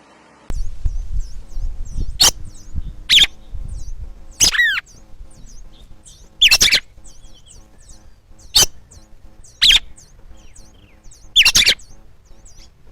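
A bird at its nest giving loud, sharp, down-sweeping calls, about seven times, a second or two apart, with faint quick high chirps in between. The calls fit a parent bird alarmed at an intruder near the nest. A low rumble sits underneath.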